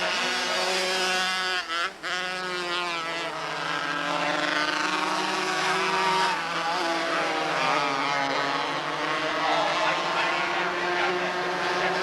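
Engines of several small open-wheel race cars (quarter midget or mini sprint class) lapping the track together, their pitches rising and falling as they accelerate and lift. The sound cuts out briefly twice a little before two seconds in.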